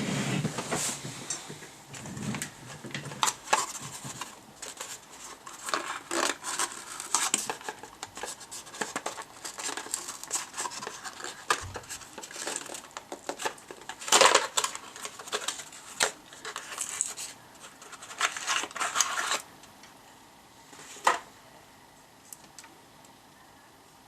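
Workbench handling sounds: irregular clicks, small knocks and rustling as tools and parts are picked up and moved. They die down about twenty seconds in, with one more click shortly after.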